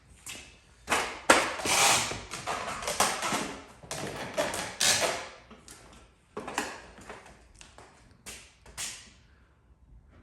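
Hand tools working a dent in a truck body panel: a quick run of sharp taps and knocks with rustling between them, dense at first and sparser from about halfway.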